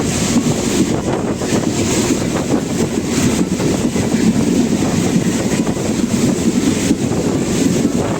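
Passenger train running, heard from on board as a steady rumble and rush, with wind buffeting the microphone.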